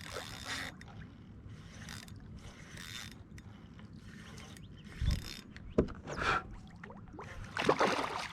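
Fishing reel being cranked in short bursts while fighting a hooked redfish, the reel's mechanism whirring and clicking, with a couple of sudden thumps against the kayak and louder splashing noise near the end.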